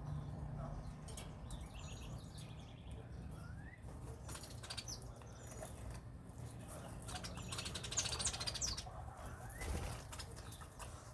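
Small birds chirping in short high calls while their wings flutter and flap. The busiest flurry of flapping and chirping comes about two-thirds of the way through.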